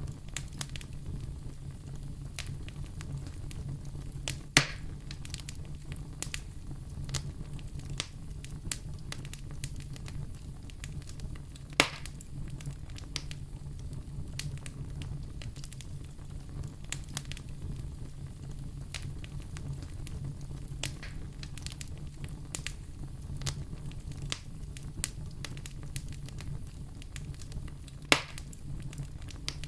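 Wood fire in a fireplace crackling steadily over a low rumble of flames, with many small snaps and three louder pops.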